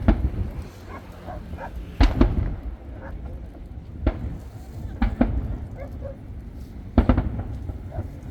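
Aerial firework shells bursting overhead: deep booms with rumbling tails, about five bursts or quick pairs of bursts one to two seconds apart.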